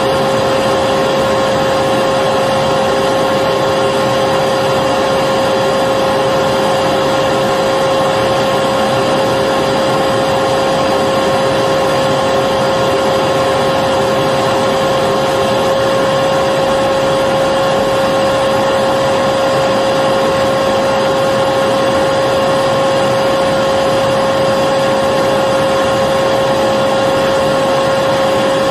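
Electric vacuum cleaner running steadily: a constant motor whine over an even rushing of air, with no change in pitch or level.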